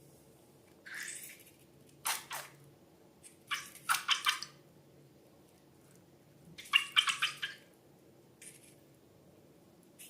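Slime being squished by hand: a run of short wet squelches in separate bursts, the loudest about four and seven seconds in.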